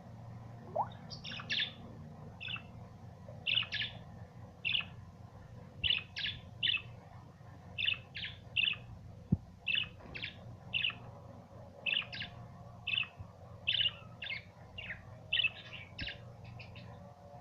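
Budgerigars chirping: short, high chirps, often in quick runs of two or three, repeated about every second. A single sharp click about nine seconds in.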